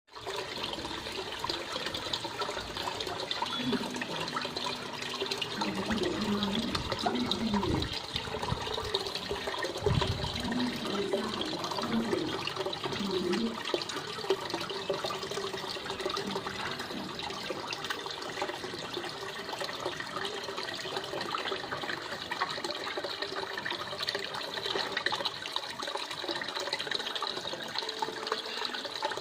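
Water running and trickling steadily: the flow of a koi aquarium's water circulation.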